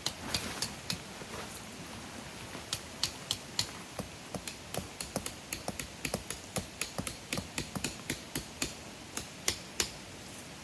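Quick sharp clicks and knocks from pitching a camping tarp, coming two to three a second with a brief lull about two seconds in.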